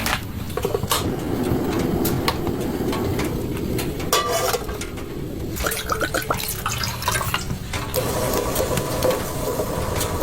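Water running or being poured, with scattered light clicks and knocks and a short rapid rattle about four seconds in.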